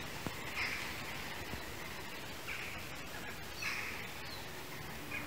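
A bird in woodland giving harsh, raspy calls, three in all, spaced one to two seconds apart, over a steady background hiss.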